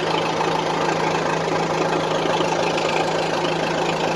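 Case 480 backhoe's engine idling steadily.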